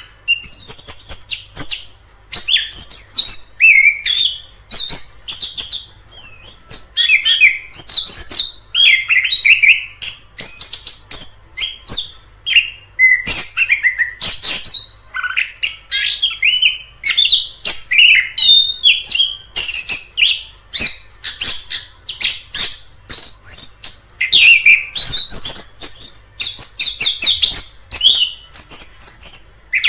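Chestnut-capped thrush (anis kembang) singing a long, unbroken run of quick, varied, high-pitched phrases with only short gaps between them.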